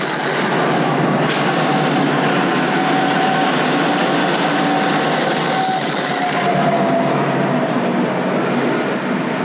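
Pacific National 90 class diesel locomotives, with EMD 16-710 sixteen-cylinder two-stroke engines, passing close beneath in heavy rain, followed by loaded coal wagons rolling by. A high thin whine runs through it and slowly falls in pitch; the mid tone dips as the last locomotive passes, about halfway through.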